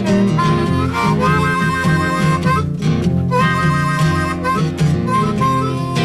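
Instrumental break of a folk-blues song: a harmonica plays a melody over acoustic guitar accompaniment.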